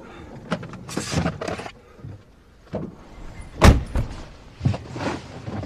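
Handling sounds in and around a parked car: a string of clicks, rustles and knocks, with a heavy car-door thunk just past the middle.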